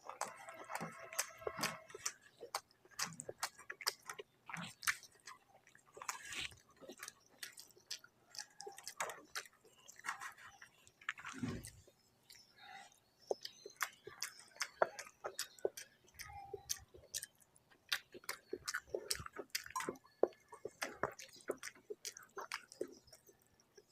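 Close-miked chewing of a mouthful of rice and curry, with many small, irregular wet mouth clicks throughout.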